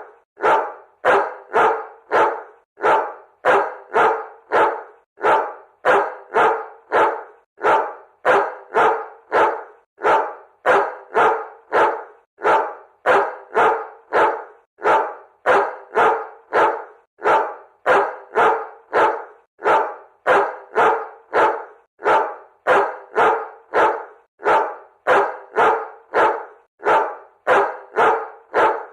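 A dog barking over and over in short, sharp barks, about two a second, falling into groups of two or three with brief pauses between them.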